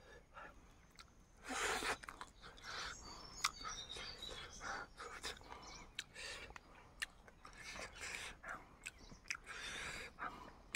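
Close chewing and lip smacking of someone eating chicken, in irregular bursts with sharp clicks.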